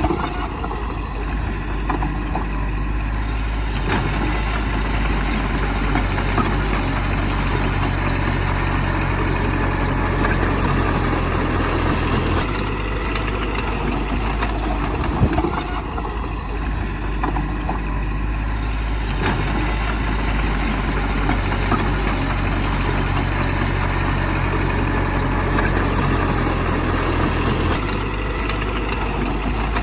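Bulldozer's heavy diesel engine running steadily, its pitch and load changing every several seconds as it works, with a few knocks.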